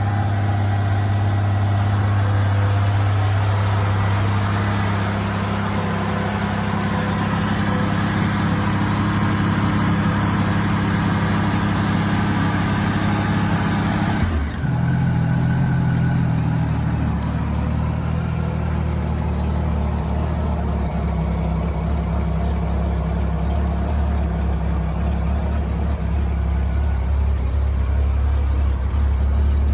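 1994 Honda Goldwing GL1500's flat-six engine running steadily. About halfway through, the sound changes abruptly and the engine note settles lower.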